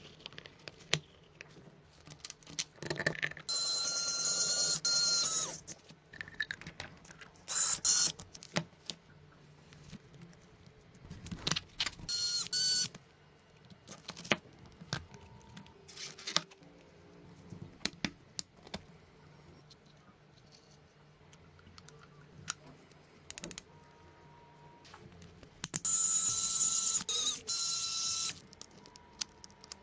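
Small high-pitched motor whirring in several short bursts of one to three seconds, with scattered clicks and taps in between.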